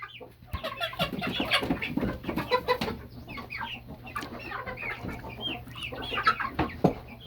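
A flock of young chickens of mixed sizes and breeds, clucking and peeping with many short calls overlapping throughout. A few sharp knocks sound among the calls, and a steady low hum runs underneath.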